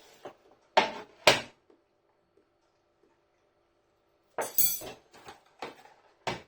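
Cutlery clinking and clattering against a dish: two sharp clinks about a second in, then a cluster of clatters and a few lighter clicks near the end.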